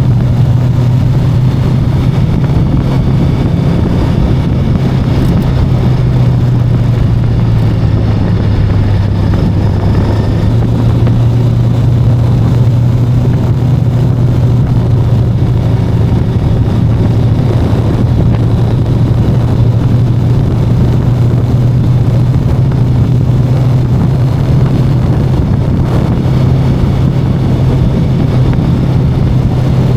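VOGE 525DSX motorcycle's parallel-twin engine running steadily while riding. Its pitch drops slightly about eight seconds in and comes back up about two seconds later.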